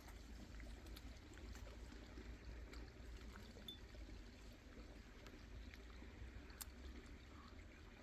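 Faint, steady trickle of water from a mountain spring, with a few small scattered clicks.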